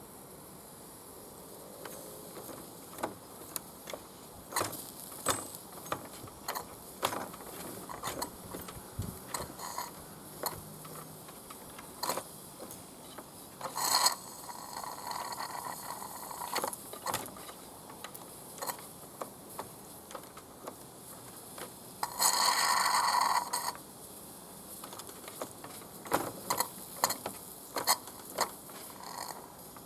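Mamod SP8 James Watt live-steam beam engine that won't kick over: irregular clicks and knocks from its small metal mechanism, with two bursts of noise, a short one about halfway through and a louder one of about a second and a half later on.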